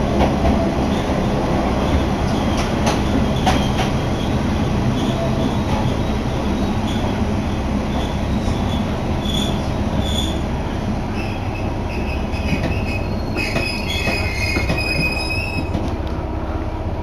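Kanto Railway Joso Line diesel railcar heard from inside, with a steady low running rumble as it slows into a station. Evenly spaced high pings sound through the first half, and high brake and wheel squeal sets in over the last third as the train comes to a stop.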